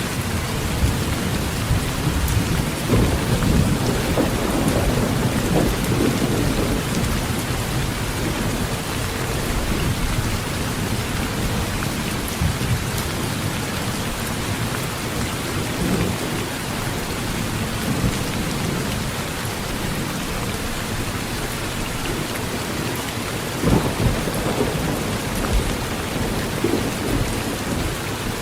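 Heavy rain drumming steadily on a metal roof, with thunder rumbling low underneath, strongest in the first few seconds and again in a sharp swell near the end.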